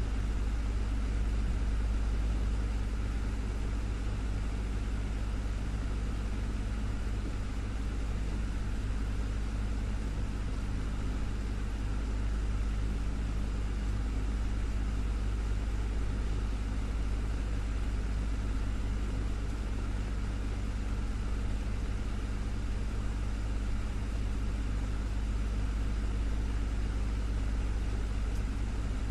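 Desktop fan running steadily: an even whoosh of moving air over a low motor hum.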